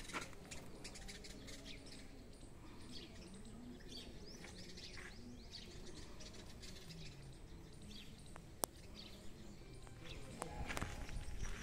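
Small birds chirping faintly and irregularly, with one sharp click about three-quarters of the way in.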